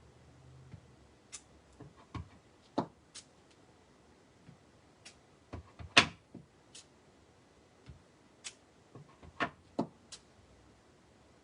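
Photopolymer stamp on its block being inked on an ink pad and pressed onto cardstock over a cushioning mat: a string of irregular light taps and clicks, with one louder knock about six seconds in.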